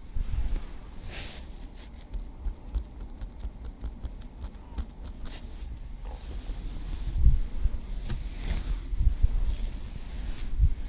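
Small wooden stick tapped and rubbed close to the microphone: a quick run of light taps, then scratchy rubbing with a few soft thumps.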